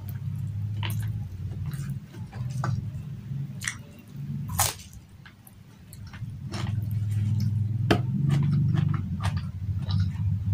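Close-miked eating with the hands: chewing rice, fried fish and fresh vegetables, with wet smacking and many sharp clicks. A steady low hum runs underneath and grows stronger in the second half.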